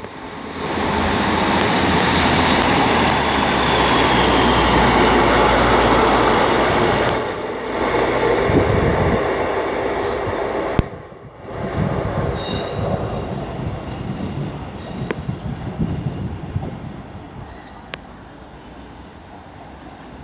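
Class 156 Sprinter diesel multiple unit pulling out of the station: diesel engine running under power with a steady low hum, a high whine falling in pitch, and wheel noise on the rails. It drops away sharply about eleven seconds in, and the rest fades.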